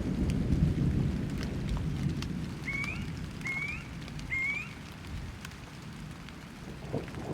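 Thunderstorm: a low thunder rumble fades over the first few seconds under steady rain, and a new rumble starts near the end. In the middle, a bird gives three short rising calls.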